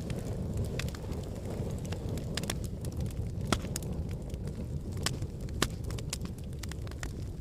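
Fire burning in a fireplace: a steady low rumble of flames with frequent small crackles and sharp pops, two of them louder, in the middle of the stretch.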